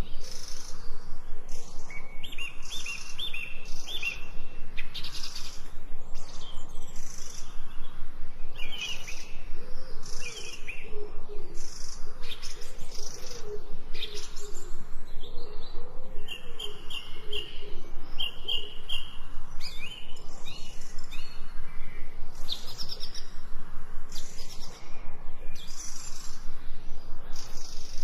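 Several birds chirping and trilling in short, repeated phrases over a steady background hiss. A lower, wavering bird call joins about ten seconds in and stops a few seconds later.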